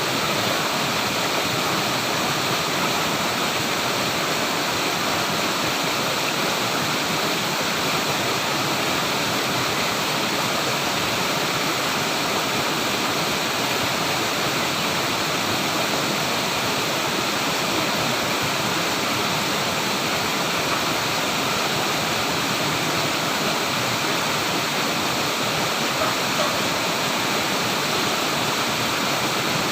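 Flowing water running steadily, a continuous even hiss with no breaks or distinct splashes.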